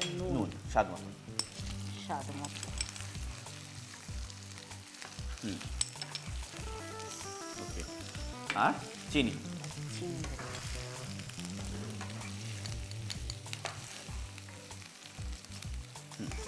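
Spiced curry sizzling and frying in oil in a metal kadai over a gas flame, stirred with a spatula that scrapes and knocks against the pan a few times. This is the frying-down stage of the masala, when salt and sugar have just gone in.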